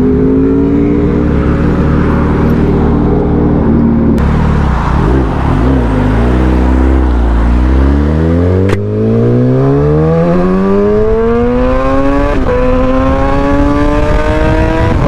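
Motorcycle engine under the rider: the revs drop for a few seconds, then climb steadily as it accelerates hard, with a quick upshift about twelve seconds in, over a steady rush of wind noise.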